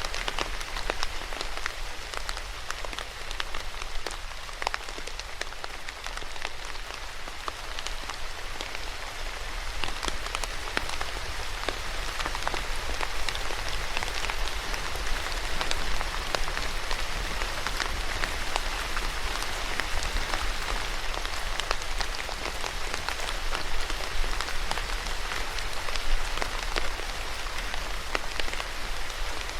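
Steady rain falling on a surface, a continuous hiss dotted with the sharp ticks of individual drops landing.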